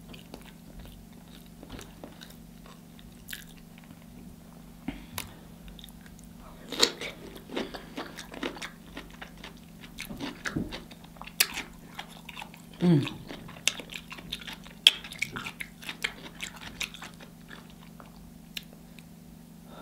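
Close-miked eating: a person biting and chewing sauce-coated corn on the cob and cucumber, with crunches and wet mouth clicks and smacks at uneven intervals.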